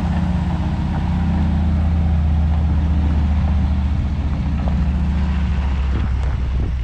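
Diesel engine of farm harvest machinery running steadily at a constant speed, a low even drone with mechanical noise over it.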